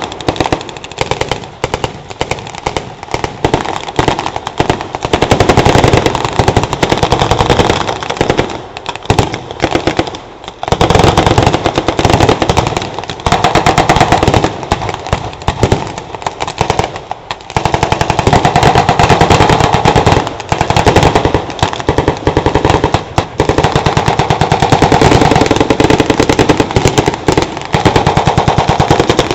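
Sustained blank-fired small-arms and machine-gun fire: rapid, overlapping bursts and shots with only brief lulls about ten and seventeen seconds in.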